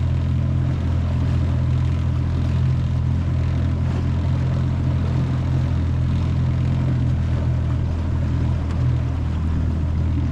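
25 hp Mercury four-stroke outboard running steadily at constant speed, a low even drone with a rushing noise over it.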